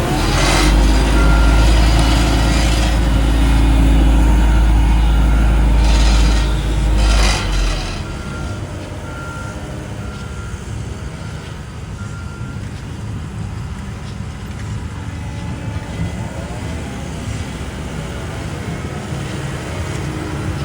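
Heavy diesel road-paving machinery running, with a deep rumble that drops away about eight seconds in, two short hissing bursts, and a faint backup alarm beeping about once a second.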